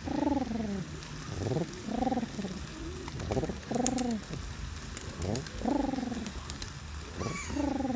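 A man imitating pigeon coos to call feral pigeons: a run of about six short coos, each rising and falling in pitch, one every second or so.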